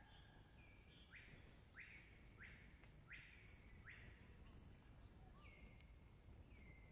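A bird calling faintly: a run of five rising notes about two-thirds of a second apart, then two notes that drop and level off.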